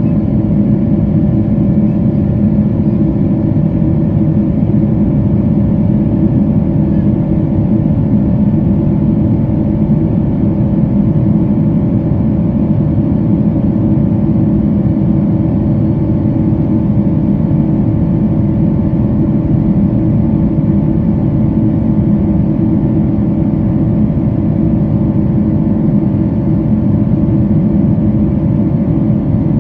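Pratt & Whitney PW4090 turbofan engines of a Boeing 777-200ER heard from a cabin seat beside the wing, running steadily in the climb after takeoff: a deep, even rumble with a ringing whine over it.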